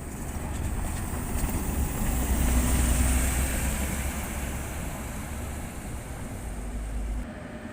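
City bus passing close by, its engine and road noise swelling to a peak about two to three seconds in and then fading away.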